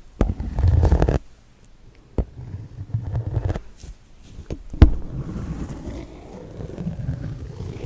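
Close-miked handling noise: rubbing and scraping right at the microphone, with a few sharp taps, the loudest about five seconds in.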